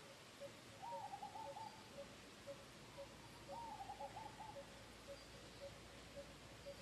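Faint bird calls: a short low note repeated steadily about twice a second, joined by two brief runs of quick higher notes, one about a second in and another about three and a half seconds in.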